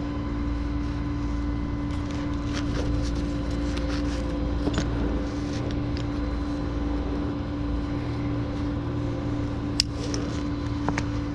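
A vehicle engine running steadily with a constant low hum. A few sharp clicks or knocks sound over it, the loudest near the end.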